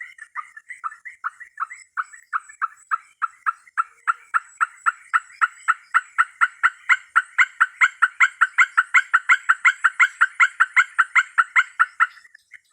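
A wild animal's call: a rapid, even series of short notes, about five a second, growing louder and then stopping abruptly near the end. A faint high steady tone runs underneath.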